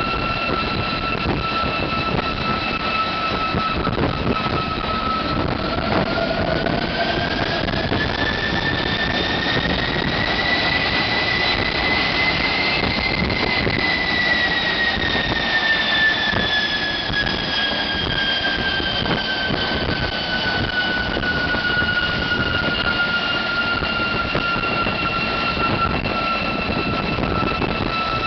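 GE J33 centrifugal-flow turbojet engine running, a steady roar with a high whine that rises in pitch about five seconds in, holds near the middle, then slowly falls back: the engine spooling up and back down.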